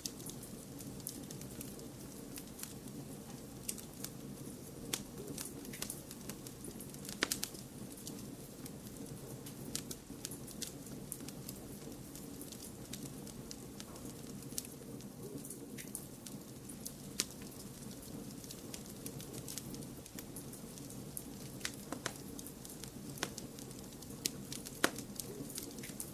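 Wood fire crackling: irregular sharp pops and snaps, a few louder ones, over a steady low rush of flame mixed with white noise.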